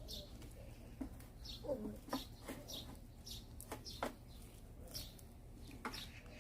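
Small birds chirping over and over in short falling notes, with a low clucking call about two seconds in. A few sharp cracks, about five in all, stand out among them.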